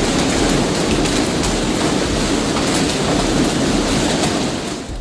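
Heavy hail pounding on a roof and breaking through it: a loud, dense clatter of countless impacts that eases off near the end.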